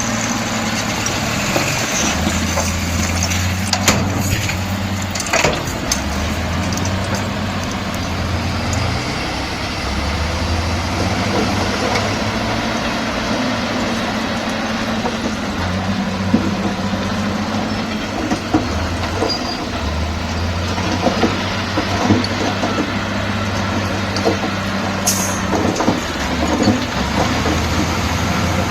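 Diesel engine of heavy earthmoving machinery running under changing load, its low drone swelling and easing every few seconds, with a few sharp clanks.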